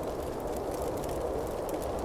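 Wood campfire burning with a steady rushing noise and scattered sharp crackles and pops.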